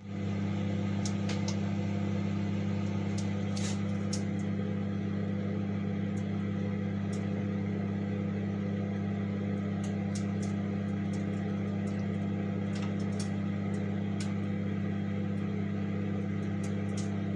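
COMFEE' 700 W compact microwave oven running: a steady, even hum that switches on abruptly, with faint scattered ticks over it.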